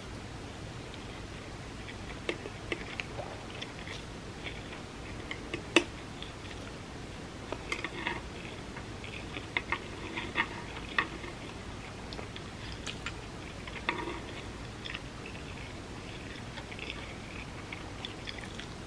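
A person chewing and biting a vegan spam musubi: irregular soft clicks and mouth smacks, busiest in the middle of the stretch.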